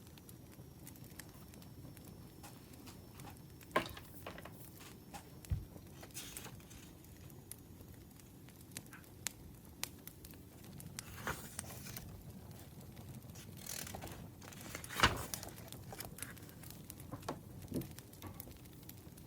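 Burning firewood crackling, with scattered sharp pops and snaps over a low hiss; the loudest pops come about four seconds in and again near the middle.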